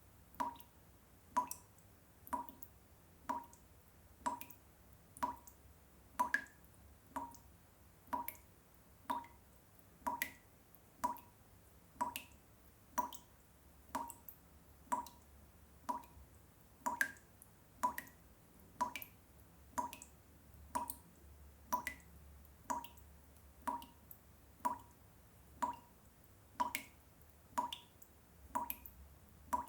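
Water drops falling into water one at a time, about one a second in an even rhythm, each a short pitched plink.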